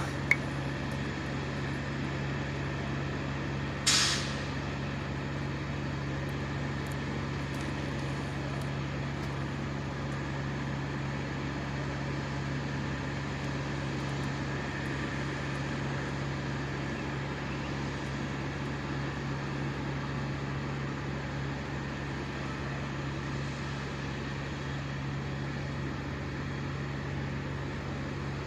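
An engine running steadily at high speed, with a constant drone. About four seconds in there is a short, sharp hiss.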